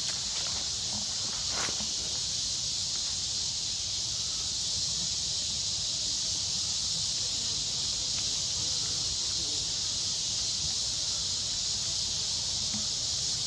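A steady, high-pitched insect chorus that runs on unbroken, with a brief rustle or click about two seconds in.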